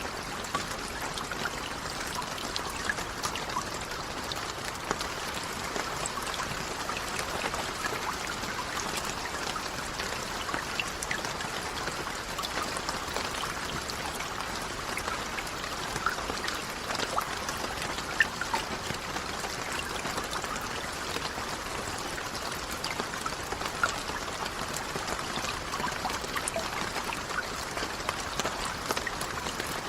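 Steady rain: an even hiss of falling water with many small, distinct drop ticks, and a few slightly louder drops about 16, 18 and 24 seconds in.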